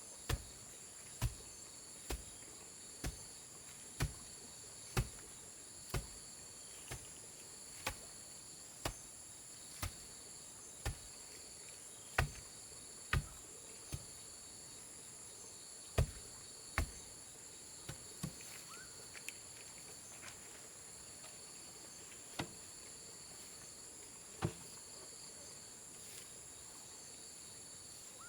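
A steady high chorus of insects, with sharp knocks about once a second that thin out to a few spaced knocks after about 17 seconds, typical of work on a bamboo structure.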